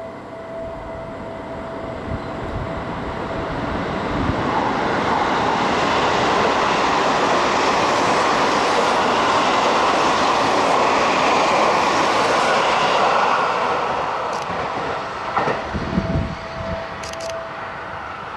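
Electric train on the Seibu Ikebukuro Line passing through the station: the rush of wheels on rails builds over a few seconds to a loud steady roar, holds, then fades, with a few low thumps near the end.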